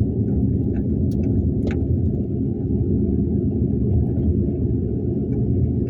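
Steady low rumble of a car's engine and tyres on the road, heard inside the cabin with the windows shut, with a couple of faint clicks about a second in.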